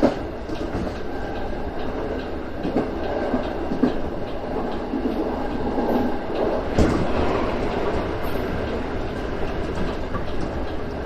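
JR West 225 series electric train running, heard from inside at the front of the train, with steady running noise and an occasional clack of the wheels over rail joints.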